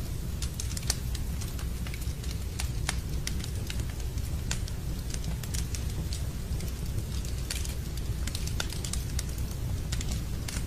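Wood fire crackling in a fireplace, with many small, irregular sharp pops, over a steady low rush of rain.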